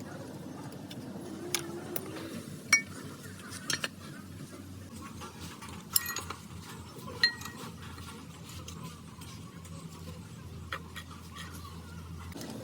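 Metal tools and parts being handled, clinking and clanking against each other: a few sharp clanks with a short metallic ring, the loudest about three, six and seven seconds in.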